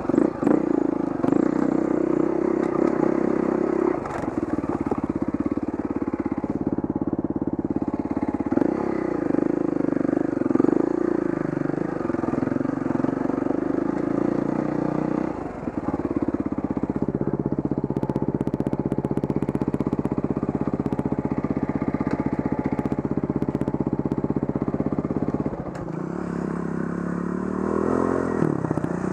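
Dirt bike engine running close to the microphone on a rough trail, the revs rising and falling with the throttle. About halfway through it settles into a steadier note, then drops away near the end before a short rev.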